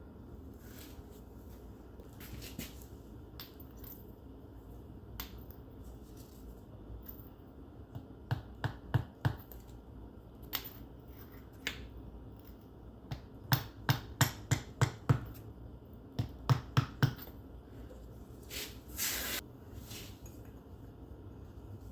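Runs of sharp metal taps, three to seven in quick succession, from a tool working on the transaxle while a seal is worked into its bore, with a brief scrape near the end.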